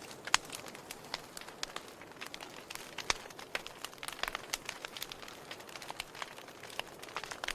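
Wood fire burning in a fireplace, crackling with irregular sharp pops over a soft hiss. The loudest pops come just under half a second in and about three seconds in.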